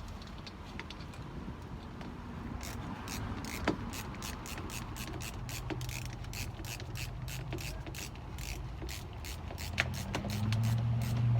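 A screw being driven to fasten a scrap-wood window brace: a steady ratcheting click about four times a second, with a low hum that grows louder near the end.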